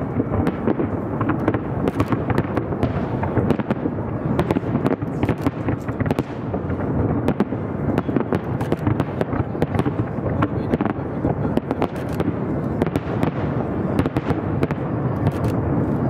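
Fireworks display heard from across a river: a dense, continuous barrage of bangs and crackling reports over a steady rumble, many sharp cracks each second.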